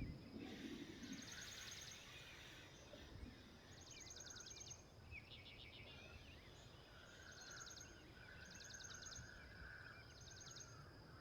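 Faint birdsong: about half a dozen short, rapid, high-pitched trills, repeated every few seconds over a faint background hiss.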